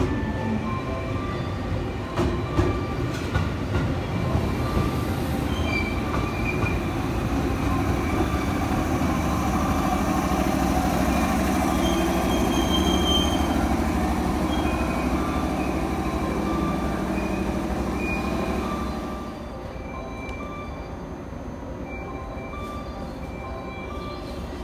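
Train running along the tracks: wheels clicking over rail joints in the first few seconds, then a steady rumble with scattered squealing tones. The sound drops off sharply about 19 seconds in.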